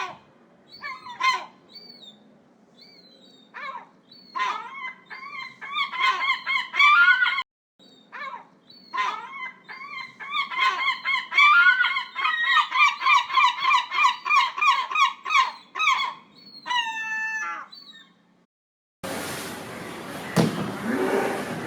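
Geese honking, single calls at first and then long runs of rapid honks, ending on a falling call. After a short pause, a different, noisy sound starts near the end.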